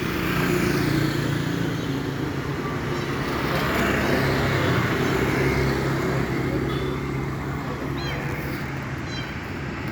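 Motor vehicle engine running close by, a steady low hum with road noise that swells and fades. A few faint high chirps sound over it near the end.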